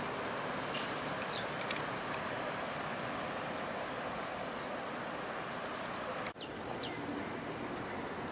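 Steady outdoor hiss of river and background noise, with a few brief, faint, high-pitched squeaks of otters calling, a few near the start and two more after a short break about six seconds in.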